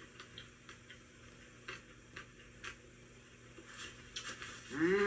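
Faint crunching and clicking of someone chewing a fried pickle close to the microphone: scattered soft ticks. Near the end a short hummed vocal sound rises and falls in pitch.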